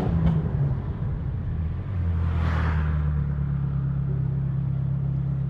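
Ferrari F430's V8 engine running at a steady cruise, heard from inside the cabin, with a brief rushing swell about two and a half seconds in.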